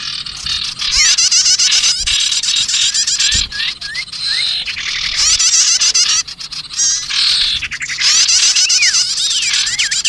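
A bird-lure recording of many small songbirds chattering noisily together, with dense, rapid high chirps and trills. Near the end, sweeping whistled notes stand out.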